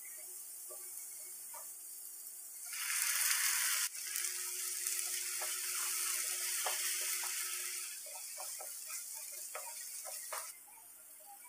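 Onions and masala frying and sizzling in a nonstick pan, with a wooden spatula scraping and tapping against the pan as it stirs. The sizzle turns much louder about three seconds in and eases back near eight seconds.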